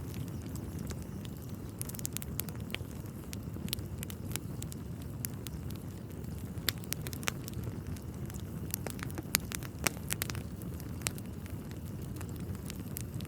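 Wood fire crackling in a fireplace as the logs burn. A steady low rush runs under frequent, irregular sharp pops and snaps.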